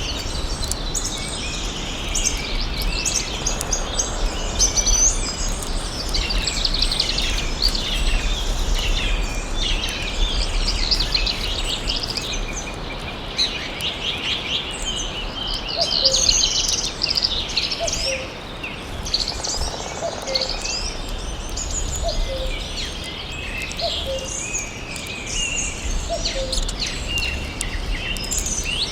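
Many birds calling and singing at once in a forest: a dense chorus of high chirps and trills over a steady low rumble. From about sixteen seconds in, a short, lower falling call repeats every couple of seconds.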